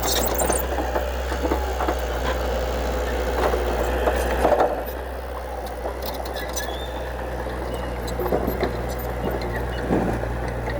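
Heavy diesel earthmoving machine engine running steadily, with occasional knocks and clanks, getting a little quieter about halfway through.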